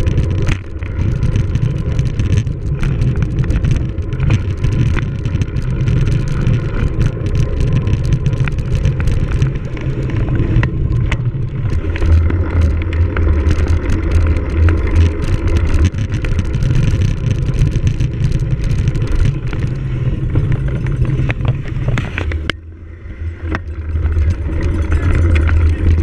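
Wind rumbling on the microphone of a camera riding along on a cyclocross bike, with many small rattles and knocks from the bike over rough ground. The rumble drops away for about a second near the end, then returns.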